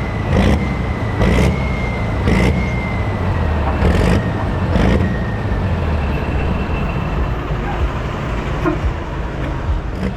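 Diesel engine of a Limited Prostock pulling tractor running steadily, with a high steady whistle over it that fades out about six seconds in, and short knocks now and then.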